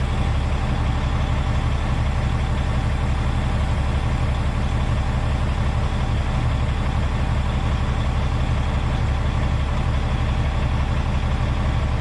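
Heavy diesel semi-tractor engine idling steadily, its sound strongest in the low end.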